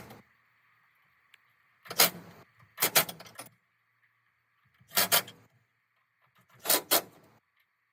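Bursts of clattering knocks, each a few quick strikes, coming five times over several seconds.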